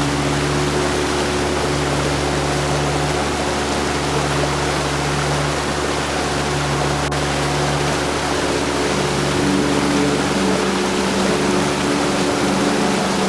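Heavy rain falling steadily in a dense, even hiss, with faint low steady tones humming beneath it.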